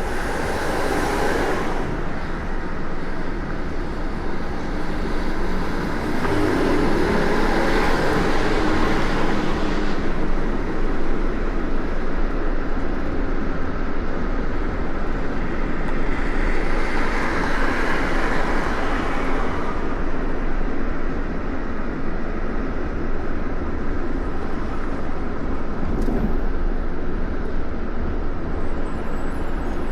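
Steady road and traffic noise of vehicles in motion, swelling louder twice, about six and about sixteen seconds in.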